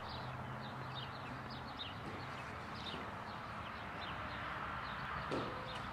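Small birds chirping in short, quick, repeated calls over a steady background hiss, with one brief knock about five seconds in.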